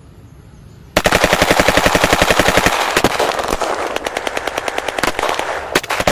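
Toy M16 rifle firing its machine-gun sound: a rapid, even string of shots, about ten a second, starting about a second in and running on.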